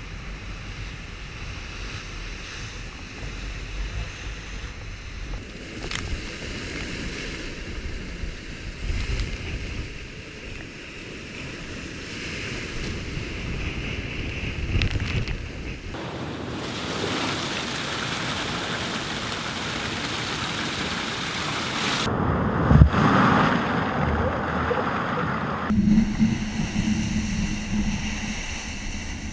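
Wind and sea rushing around a VO65 ocean racing yacht sailing fast in strong wind and big waves, with wind buffeting the microphone. The sound changes abruptly several times, and a single sharp thump about 23 seconds in is the loudest moment.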